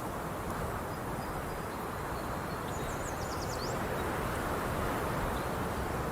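Steady outdoor background noise, with a short run of quick, high-pitched bird chirps about halfway through.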